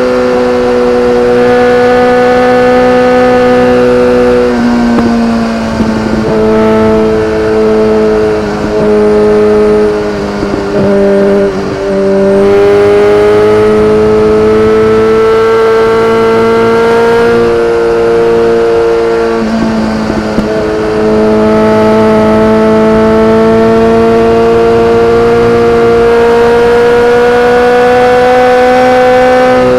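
BMW K1300R's inline-four engine running loud through an Akrapovic exhaust, holding fairly steady revs that creep up slowly, with a few short drops in pitch and loudness where the throttle eases off.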